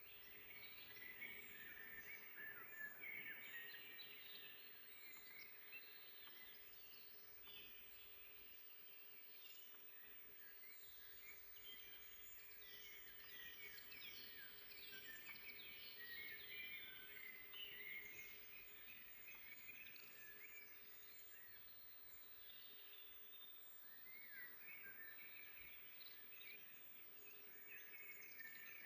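Faint chorus of several songbirds singing in a forest: many short chirps and trills overlapping, with a faint steady hum underneath.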